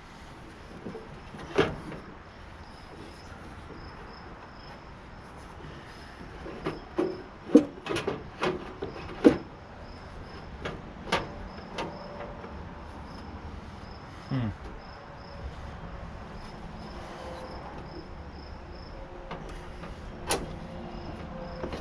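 Scattered clanks and knocks of metal parts and hand tools while a tankless water heater is taken apart, with a quick cluster of sharp knocks about seven to nine seconds in.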